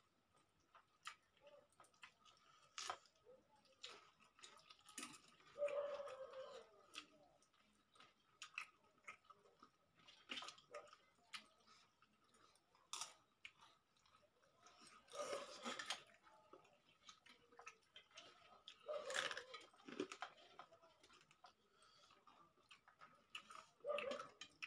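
Quiet chewing, with many small scattered clicks and a few louder spells of chewing from people eating rice and chicken curry by hand.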